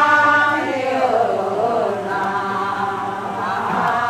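Several voices chanting together in a Pingpu khan-khiok (牽曲) ritual song, in long held notes with a slide in pitch about a second in.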